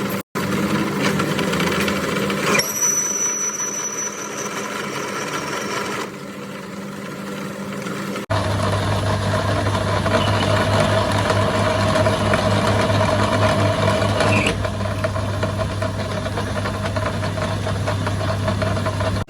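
Machine running steadily with a humming tone, in several short segments that change abruptly, as from machines cut one after another.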